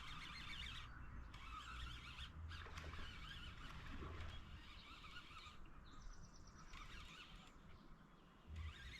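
Birds calling faintly, many short wavering calls throughout, over a low outdoor rumble.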